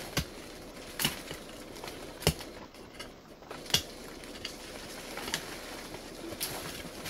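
Irregular sharp snaps and cracks, about one every second, over a steady rustle.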